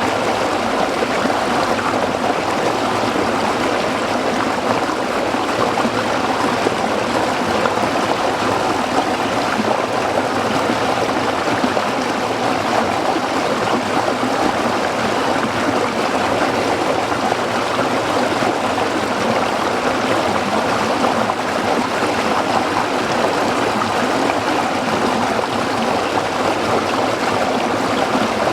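Shallow stream of water flowing and splashing over rocks, a steady even rush without pauses.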